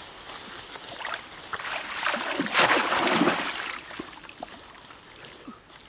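Water splashing and sloshing in irregular bursts, with the loudest burst about halfway through.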